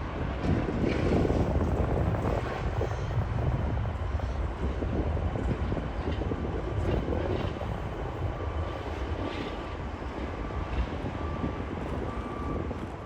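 Jet airliner engine noise: a broad rumble that is loudest a second or two in and then slowly fades.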